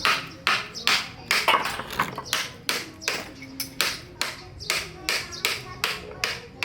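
A hand tool working wood in short, rasping strokes, about three a second, each starting sharply and fading quickly.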